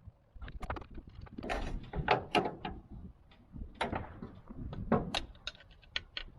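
Hand tools knocking and clunking against metal in a car's engine bay: a series of irregular knocks, the sharpest around two seconds in and again around five seconds in, as a tool is worked at a freeze plug in a tight space.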